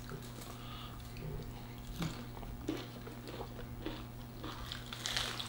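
Close-miked eating sounds of a fried chicken sandwich and cucumber slices being chewed, with soft wet mouth clicks and light crunches. There is a brighter crunch of a bite about five seconds in.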